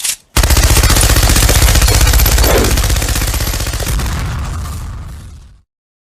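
Rapid-fire machine-gun sound effect: a loud, fast, even rattle of shots that starts about half a second in and fades away over its last couple of seconds, stopping about a second before the end.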